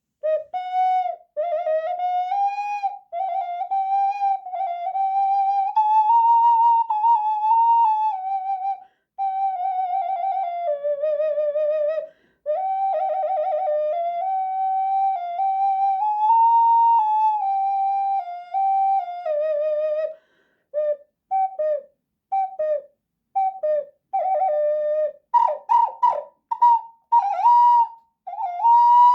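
Bird-shaped clay ocarina in a folk tuning playing a slow melody, mostly stepwise, with vibrato on the held notes and short breaths between phrases. In the last few seconds it switches to short, detached notes with sharper attacks.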